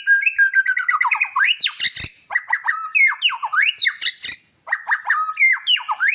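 White-rumped shama (murai batu) singing a fast, varied run of whistled notes and down-slurred glides, with a few sharp clicks among them.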